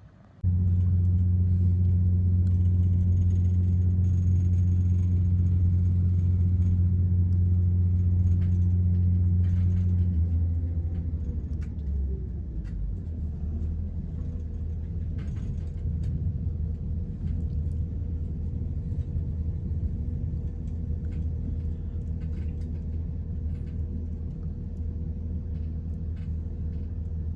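Train running: a steady low rumble and hum that starts suddenly and drops to a lower, rougher rumble about ten seconds in.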